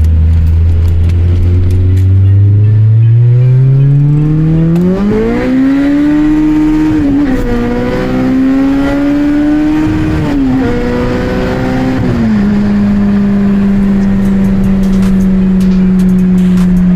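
Honda K24 four-cylinder engine accelerating. Its note climbs steadily for a few seconds, dips briefly twice about 7 and 10 seconds in, then drops about 12 seconds in to a steady cruising note.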